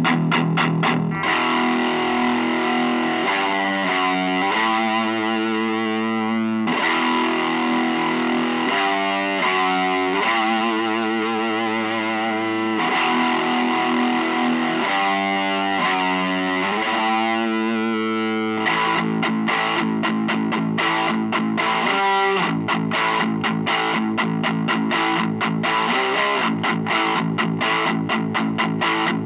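Chapman ML3 Modern electric guitar through a Vox Lil Night Train 2-watt all-tube amp head on its thick, higher-gain voice, playing a distorted rock tone. Held chords ring out for most of the first two-thirds, then from about 18 seconds in a fast picked riff takes over.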